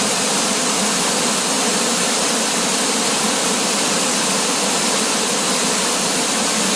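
Waterfall: a steady, loud rush of falling water that cuts off suddenly at the end.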